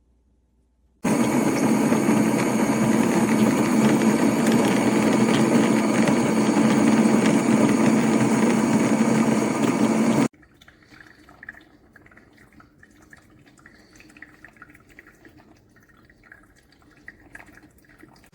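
A Gevi drip coffee maker with a built-in grinder runs with a loud, steady noise that starts suddenly about a second in and cuts off sharply about nine seconds later. Faint irregular crackling and gurgling follow.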